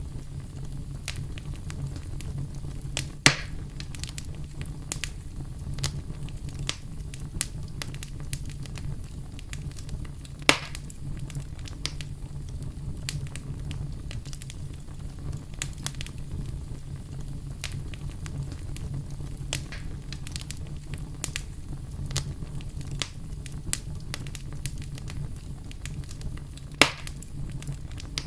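Wood campfire crackling: a steady low rumble of flame under frequent small snaps, with three louder pops about three seconds in, ten seconds in and near the end.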